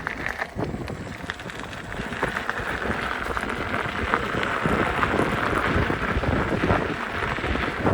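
Wind rushing over the microphone, with the crackle of an electric unicycle's tyre rolling over a rough trail.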